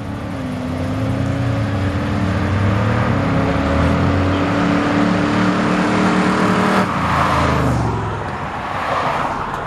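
Chevrolet Corvette engine running as the car comes slowly toward the camera. Its note grows louder over the first few seconds, holds, then drops away about seven seconds in.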